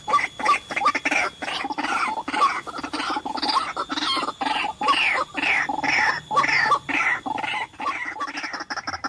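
White-breasted waterhen calling: a rapid run of harsh repeated notes, about three a second, each sliding down in pitch.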